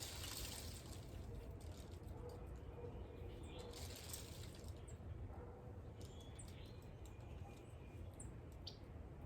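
Steady outdoor background noise with a few short, high bird chirps scattered through it and two brief swells of hiss.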